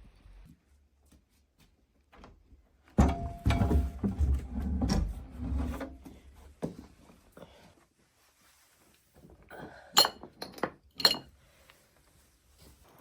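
A run of knocks and low thuds of objects being handled, then two sharp clinks about ten and eleven seconds in.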